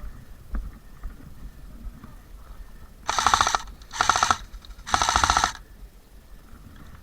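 Airsoft gun firing three short full-auto bursts of rapid clicks in quick succession, about three seconds in.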